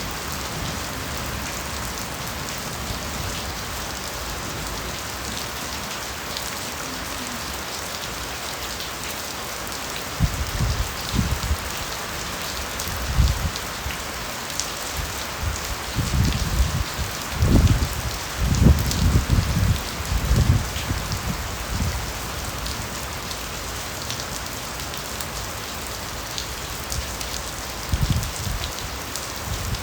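Steady rain falling through a bamboo forest, an even hiss with scattered drop ticks. Irregular low rumbles come and go from about a third of the way in, louder than the rain, and again near the end.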